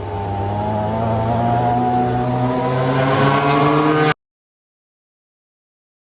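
Racing superbike engines accelerating hard, the pitch rising steadily, then cut off abruptly about four seconds in, leaving dead silence.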